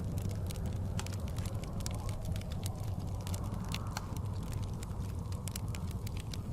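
Log fire crackling with many quick sharp pops and snaps, over a steady low rumble of blizzard wind that swells briefly about four seconds in.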